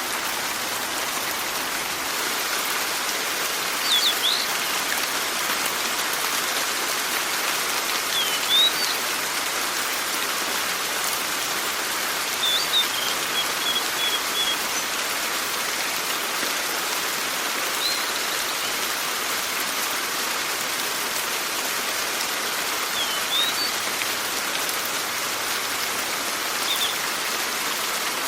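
Steady rain falling, with a bird's short chirping calls coming through about every four or five seconds.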